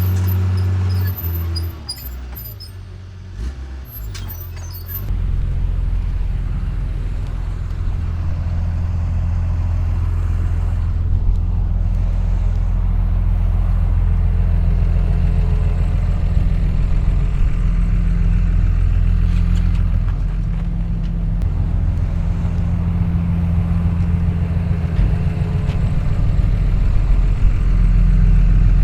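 Heavy diesel engine of earthmoving equipment running with a steady low drone. It drops away about a second in and comes back loud a few seconds later, then holds steady.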